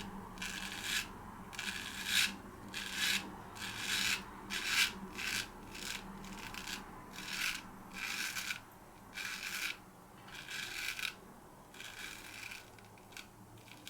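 Joseph Rodgers & Sons No1 Star & Cross Sheffield straight razor scraping through lathered stubble in short, repeated strokes, about one or two a second, each a crisp rasp. The strokes grow fainter in the last couple of seconds.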